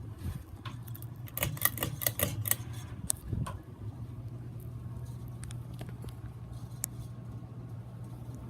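Fasco Gulf Stream ceiling fan running with a steady low hum. A quick run of clicks and taps comes about a second and a half in and again around three seconds in.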